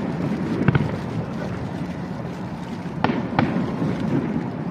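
Fireworks going off close by: a few sharp bangs, one just under a second in and two a little after three seconds, over a steady noisy background.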